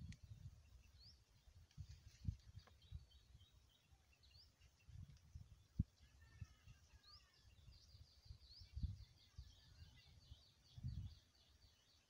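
Faint outdoor birdsong: short rising chirps, then a quick run of repeated notes in the second half, over low rumbling thumps and one sharp knock about six seconds in.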